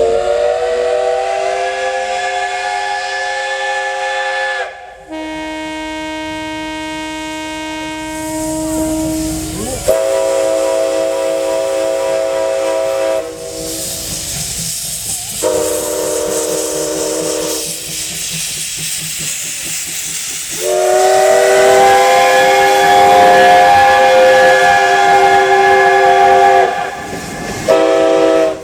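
Steam locomotive whistles blown one after another in long blasts of several seconds each, with steam hissing. Some blasts sound several pitches at once like a chime, and one lower whistle has a fuller, reedier tone. The longest blast comes about two-thirds of the way in, and another starts just before the end.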